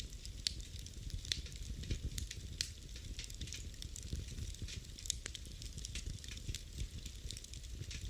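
Wood fire in a fireplace crackling, with irregular sharp pops several times a second over a low steady rumble of the flames.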